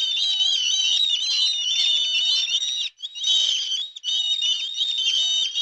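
A flock of gulls calling, many high-pitched calls overlapping in a continuous chorus, with two brief breaks about three and four seconds in.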